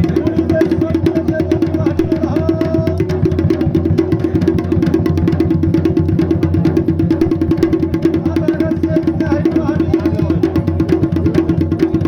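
Traditional Garhwali dhol and damau drums playing a fast, steady rhythm of dense, evenly repeating strokes to accompany the Pandav dance.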